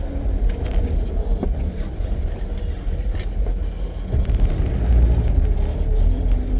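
Safari vehicle's engine running as it drives along, heard from on board: a steady low rumble that swells about four seconds in.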